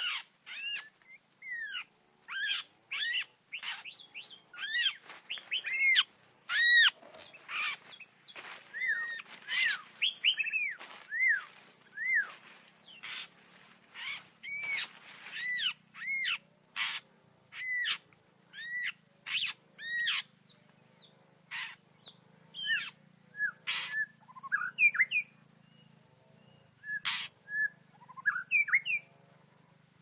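White-rumped shama calling: a fast series of short arched chirps, several a second, mixed with sharp clicking notes, thinning out into scattered calls in the second half.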